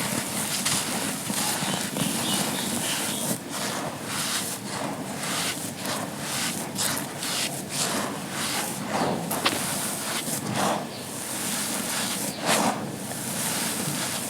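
Dry, grainy charcoal shapes being crushed and crumbled: a continuous gritty crunching with frequent sharp crackles.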